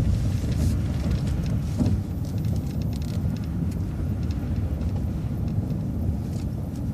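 City transit bus moving slowly, heard from inside: a steady low engine and road rumble with light scattered rattles and clicks.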